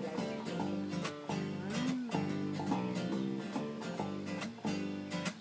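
Instrumental break in a country-style song: guitar chords strummed in a steady rhythm, with no singing.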